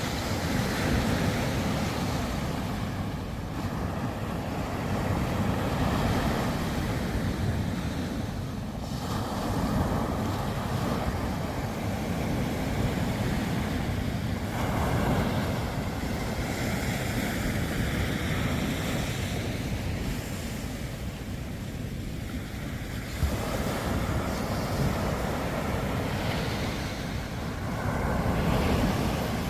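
Sea waves breaking and washing onto the shore in repeated surges, with wind buffeting the microphone.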